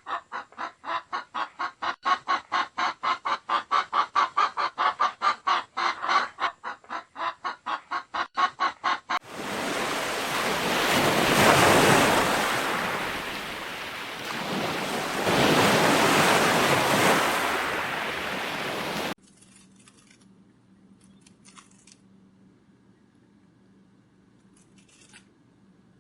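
Domestic fowl calling in a fast, even run of short clucks, about four to five a second, for roughly nine seconds. This gives way abruptly to a loud rushing noise that swells twice and cuts off suddenly, followed by faint sound with a few soft clicks.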